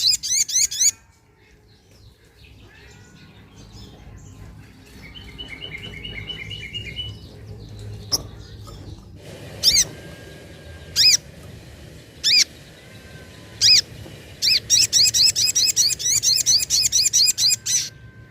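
Sogok ontong (sogon) calling: a rapid run of high repeated chips at the start, a softer run of lower notes, then four single sharp notes spaced about a second and a half apart, and another long rapid run of chips near the end. A low steady hum lies underneath.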